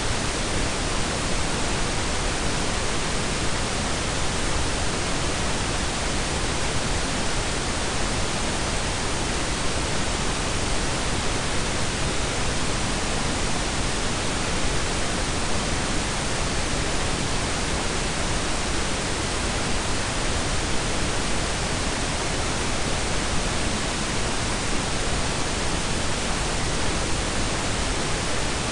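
Blended pink and brown noise: a steady, even hiss with a deep rumble underneath, unchanging throughout.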